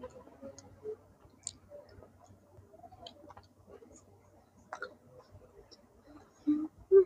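Close-up chewing and small mouth clicks of a man eating bread, with two short louder sounds near the end.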